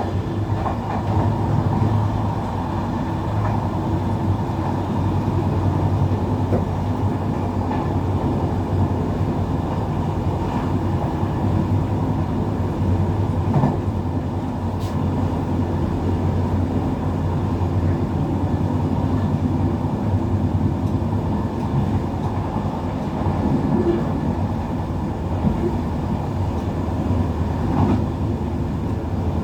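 Steady rumble of a passenger train running along the track, heard from inside the carriage, with a few faint clicks from the wheels.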